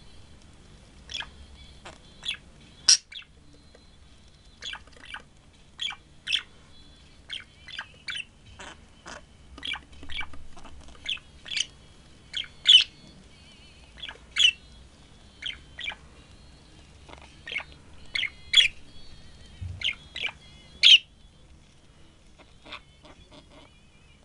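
Short, sharp bird chirps repeated at an uneven pace, about one or two a second, some much louder than others.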